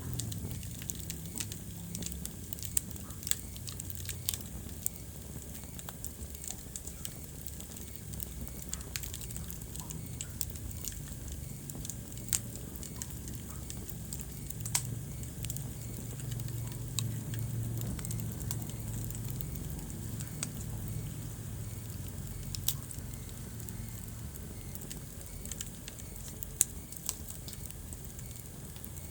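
Wood fire crackling in a fireplace, with frequent sharp pops scattered irregularly over a low steady rumble.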